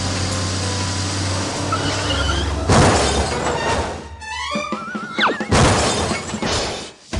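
Cartoon background music, broken about three seconds in by a loud crash, followed by wobbling, gliding whistle effects and more loud noisy bursts before it cuts off suddenly near the end.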